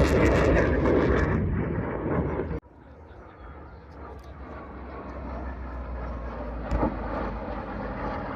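Airplane engine noise, loud at first and fading, that cuts off abruptly about two and a half seconds in. Quieter, steady background noise follows, with a brief louder sound near the end.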